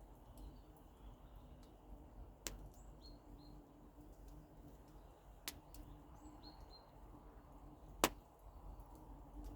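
Campfire crackling quietly, with three sharp pops about three seconds apart, the last the loudest. Faint bird chirps in the background.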